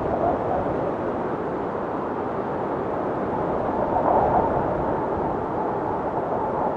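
Blizzard wind blowing steadily, with a howl that swells about four seconds in.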